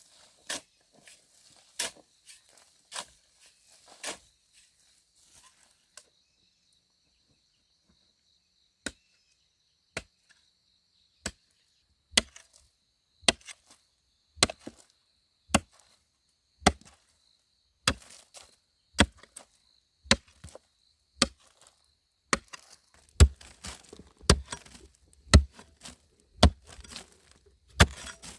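Wood being chopped by hand with a blade: a few scattered strokes at first, then steady blows about once a second, heavier near the end.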